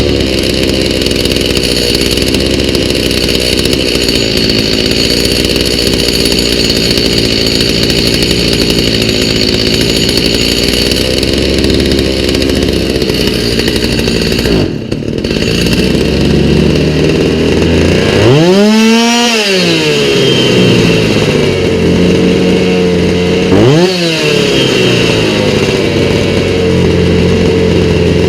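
Stihl MS290 chainsaw's two-stroke engine idling, stumbling briefly about halfway, then revved up and back down twice: a longer rev about two-thirds of the way in and a short blip a few seconds later, each time returning to idle. It is running on a newly fitted aftermarket carburettor set to 1 1/4 turns on the low-speed screw and 1 on the high.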